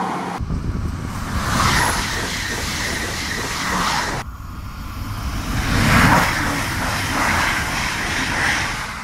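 Alstom Coradia Liner V160 (Régiolis) multi-unit train passing at speed: a steady rush of wheels on rail and air, loudest about six seconds in. The sound changes abruptly twice where separate recordings are spliced together.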